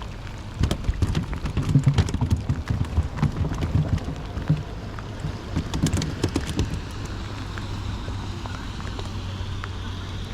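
Rain and wind on the microphone: irregular crackles and low thumps for most of the first seven seconds, easing into a steady low hum near the end.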